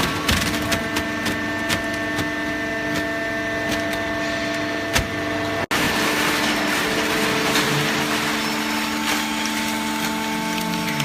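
Hydraulic baler running: a steady machine hum with overtones and scattered sharp clicks and cracks. The hum shifts in pitch after a brief dropout about halfway through.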